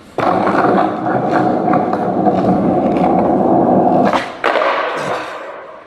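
Skateboard wheels rolling on wet pavement: a steady rumble with small clicks through it. It breaks off briefly about four seconds in, then resumes and fades out near the end.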